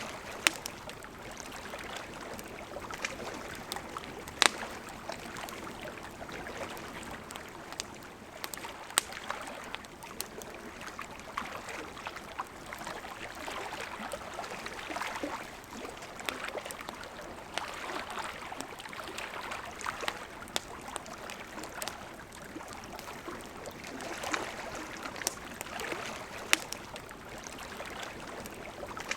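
Campfire crackling with scattered sharp pops over the steady rush of a river.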